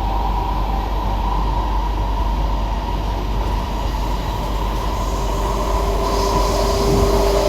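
Interior of an SMRT C151B metro train running along the track, with steady rolling rumble and motor tones. About five seconds in, a new steady motor tone joins and the sound gets slightly louder.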